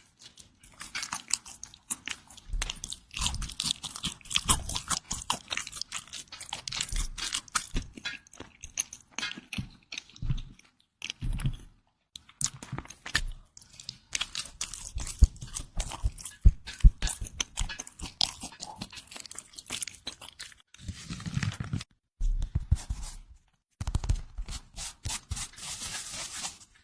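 A person biting and chewing crusty bread close to the microphone: dense crisp crunching and crackling, with a few short pauses.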